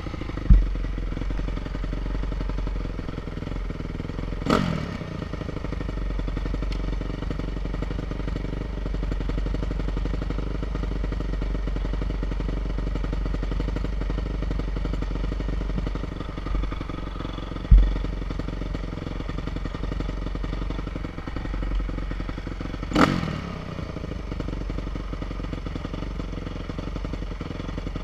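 Enduro motorcycle engine running at a fairly steady pitch over a heavy low rumble. Two sharp thumps come, one right at the start and one about two-thirds through. Twice there is a short burst that drops in pitch, a few seconds in and again past three-quarters.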